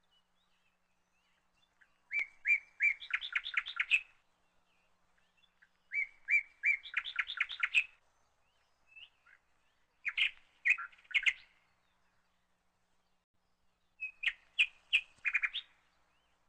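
A songbird singing four short phrases, each a few spaced clear notes running into a quick series, about four seconds apart.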